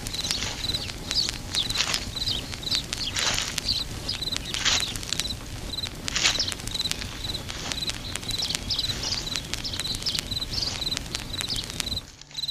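Outdoor nature ambience: a steady series of short high chirps, with louder calls every second or two and scattered light clicks; it cuts off just before the end.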